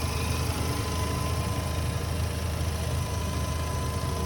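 Mazda RX-7 FD's twin-turbo 13B rotary engine idling steadily at operating temperature, with the hood open. A thin, steady whine sits above the low engine hum.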